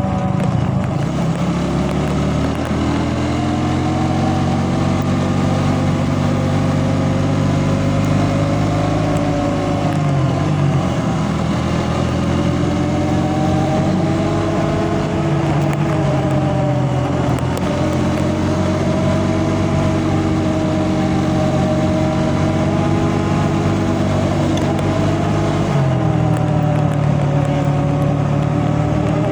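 A motor vehicle's engine running steadily while driving, with road noise. Its pitch dips and climbs again several times as the speed changes.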